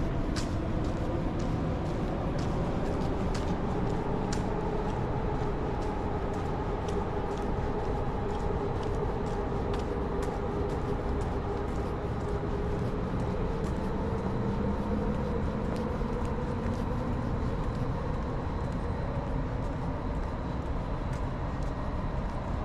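Steady street noise of passing vehicles, with a motor tone that slowly rises and falls, and footsteps clicking on pavement about once a second, clearer in the first half.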